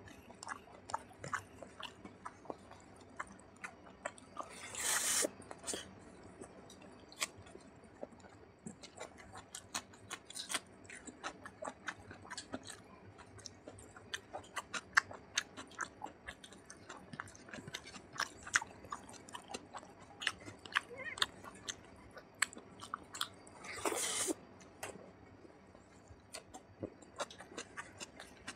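Close-miked wet chewing and lip smacking of a person eating rice with mutton fat curry by hand, with many small sharp clicks. Twice, about five seconds in and again late on, there is a short louder rush of noise.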